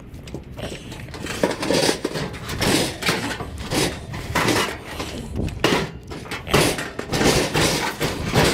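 Irregular clattering and banging of loose metal junk being handled and piled, a quick run of sharp knocks that keeps going from about a second and a half in.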